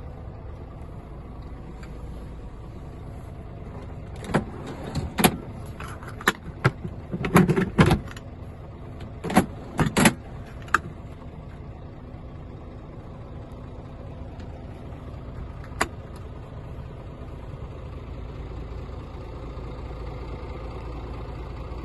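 Scania R450 truck's 13-litre six-cylinder diesel engine idling steadily, with a run of sharp clicks and knocks from about four to eleven seconds in and one more knock near sixteen seconds.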